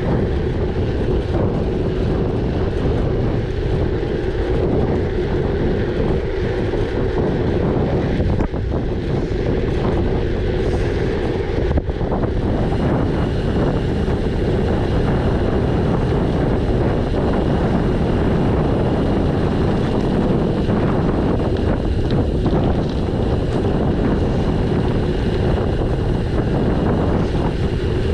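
Steady wind noise buffeting the microphone while riding a gravel bike, with the continuous rumble of the bike on the track. About twelve seconds in there is a click, and after it a faint high steady tone.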